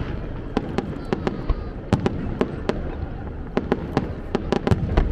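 Fireworks display: shells bursting in a rapid, irregular string of sharp bangs, a dozen or more in five seconds, over a continuous low rumble.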